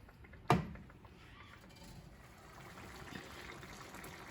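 Mushroom gravy boiling in a pan, a faint bubbling that grows a little louder toward the end. There is one sharp knock about half a second in.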